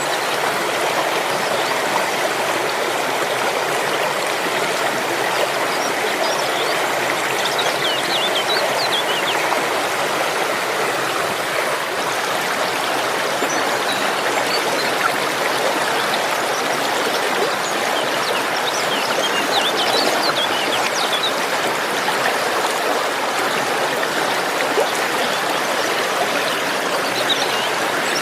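Steady rush of flowing water, like a stream or river, with a few faint high chirps over it.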